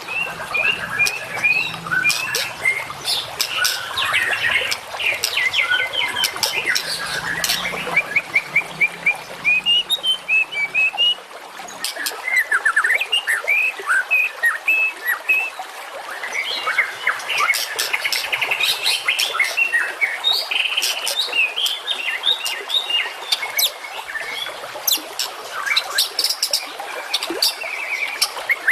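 Recorded songbird calls in a dense, continuous stream: sharp chirps, fast rattling trills and quick ticking notes, the kind of mixed small-bird 'fill' and rapid 'shots' used as a masteran training track for murai batu and other contest songbirds.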